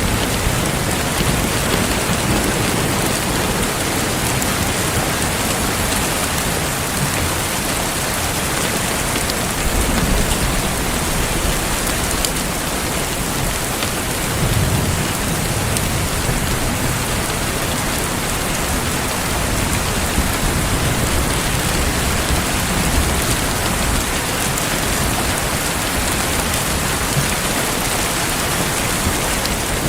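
Heavy rain falling steadily, a dense even hiss, with low rumbles swelling up now and then, about ten and fifteen seconds in.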